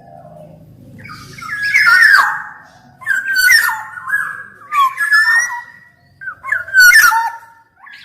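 Black-naped oriole singing in loud, fluty whistled phrases mixed with harsh, squawking notes, about four phrases with short pauses between them.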